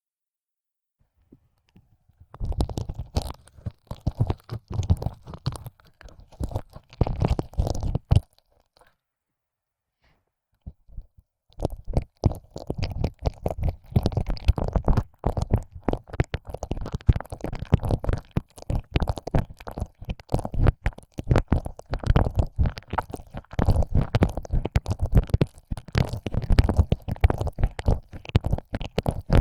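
Close-up ear licking: wet tongue and mouth sounds, dense irregular clicks and smacks as a tongue is pushed in and out of an ear hole. It starts after a couple of seconds of silence, pauses for a few seconds about a third of the way in, then resumes and continues without a break.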